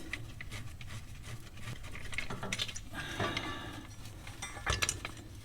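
Scattered light metallic clinks and taps of hand tools and hardware being handled, a few sharper ones in the second half, over a faint steady low hum.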